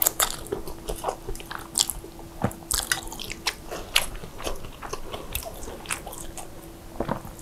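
A person chewing a mouthful of saucy fried instant noodles, close to a clip-on mic: a string of irregular wet mouth clicks and smacks over a faint steady hum.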